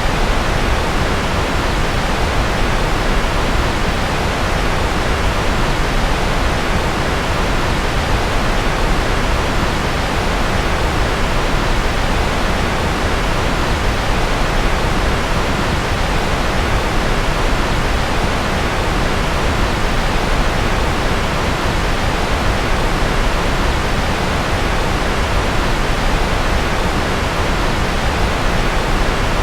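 Steady, unchanging noise with no tones or events, heavier in the low end than the top, played as a sleep-aid white-noise track billed as rocket or jet noise.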